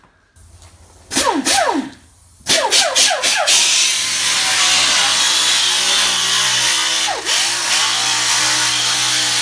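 Electric grinder triggered briefly and winding down about a second in, then started again and run steadily, grinding paint and body filler off a car's steel rear quarter panel. It dips briefly about seven seconds in.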